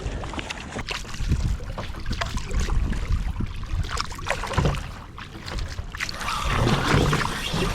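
Water sloshing around a sit-on-top kayak as it is paddled, with scattered clicks from a chest-mounted camera mount knocking. The water noise swells louder about six seconds in.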